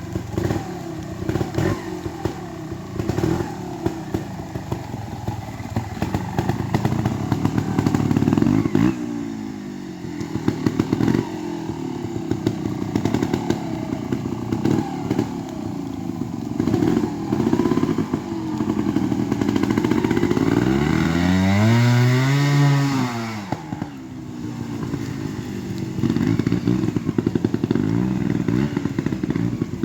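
Trials motorcycle engine running through a section, with repeated short throttle blips and clattering, and one big rev that rises and falls about three quarters of the way through.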